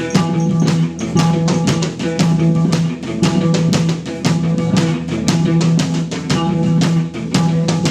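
Instrumental post-rock band playing live: a drum kit keeps a steady beat on bass drum and snare under a repeating low electric bass note and sustained electric guitar notes.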